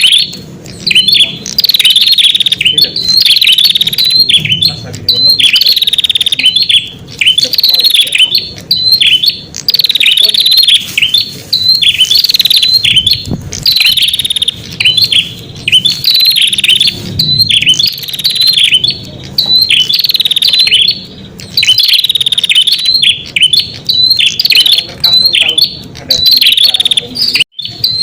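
Prenjak (prinia) calling: loud, rapid high chirping phrases, one after another about once a second with short gaps between them.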